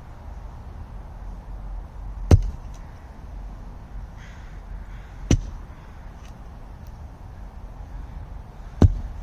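A hand tool chopping into tree roots in the ground, three sharp strikes about three seconds apart.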